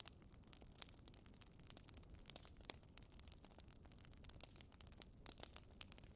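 Wood fire crackling faintly: irregular sharp pops and snaps over a soft low rumble, with a few louder pops.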